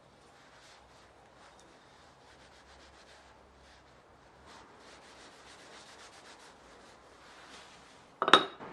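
Faint rubbing strokes of Japanese plane (kanna) work, such as a blade being worked on a whetstone. Near the end comes one sharp knock with a short ringing tone.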